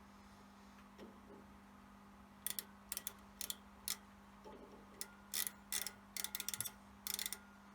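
An irregular series of short, sharp clicks, starting about two and a half seconds in and bunching up near the end, over a faint steady hum.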